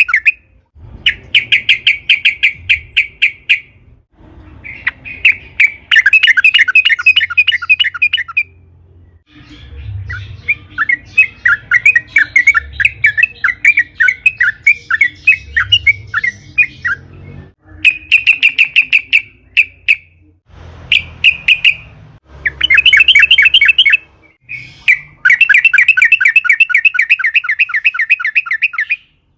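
Yellow-vented bulbul (trucukan) singing: loud phrases of rapid rolling chattering notes, each two to four seconds long with short pauses between them, and one longer, more jumbled phrase about nine seconds in.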